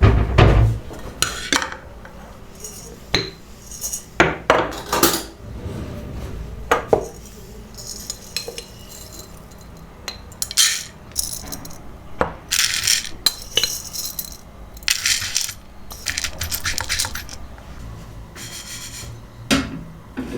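Kitchen dishes and utensils being handled: a series of separate clinks and knocks, with several short scraping sounds in between.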